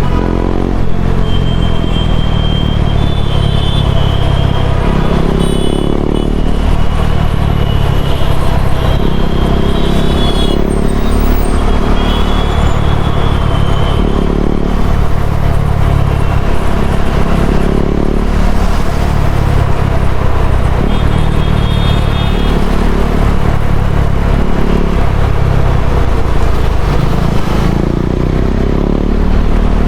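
KTM Duke 390 single-cylinder engine through an Akrapovic slip-on exhaust while riding, its revs climbing and falling several times.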